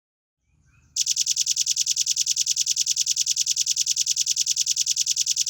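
Velvet-fronted nuthatch giving a loud, very fast trill of evenly repeated high-pitched notes, about ten a second. It starts about a second in and keeps going without a break for nearly five seconds. This is the rapid 'nembak' burst that keepers use as tutor song.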